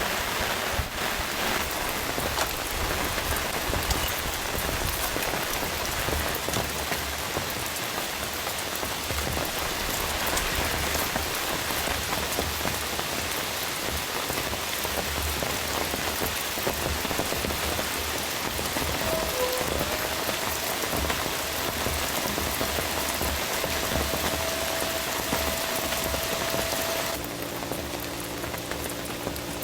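Steady heavy rain falling on a tent, with irregular low thuds under it. Near the end the rain drops to a softer level and a faint steady hum comes in.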